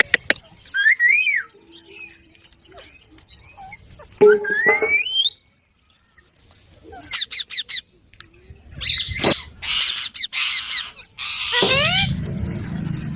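Pet green parrot calling: short whistled glides, a long rising whistle about four seconds in, a quick run of clicks midway, then harsh screeching squawks in the second half.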